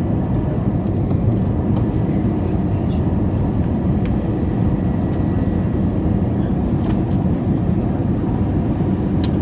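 Steady cabin noise of an Airbus A321 in descent: a low drone of engines and airflow, with a faint steady hum over it.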